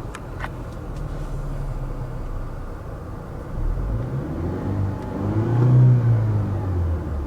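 2015 Lexus NX 200t's 2.0-litre turbocharged four-cylinder engine idling, then revved once: the pitch climbs from about three and a half seconds in, peaks near six seconds and drops back toward idle. A couple of light clicks near the start.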